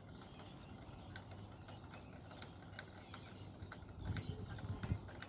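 Faint outdoor ambience with scattered short chirps and clicks, and a few low thumps about four seconds in.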